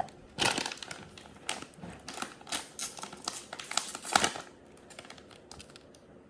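Packaging crinkling and rustling in quick irregular crackles as a blind pack of a mini monster truck toy is torn open, thinning to quieter rustling near the end.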